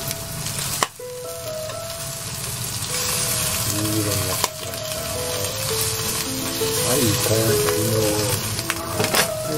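Boiled squid sizzling in a frying pan as they are turned over with chopsticks. The sizzle gets louder a few seconds in, and there is a sharp clack about a second in. Background music plays throughout.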